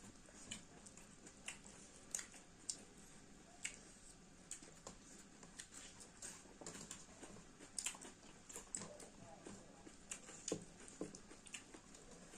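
Faint chewing while eating chicken: irregular small mouth clicks, several a second.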